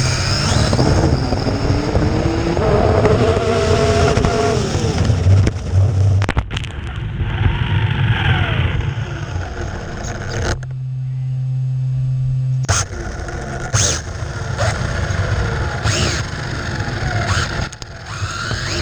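Electric motor of a Traxxas 4-Tec RC car whining as it speeds up and slows on a speed run. The pitch of the whine rises and falls over a steady rushing noise, and for about two seconds near the middle only a steady low hum is heard.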